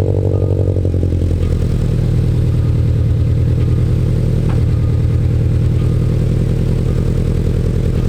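Subaru BRZ's flat-four engine idling steadily through a catless exhaust: Invidia N1 cat-back, catless front pipe and Tomei unequal-length headers.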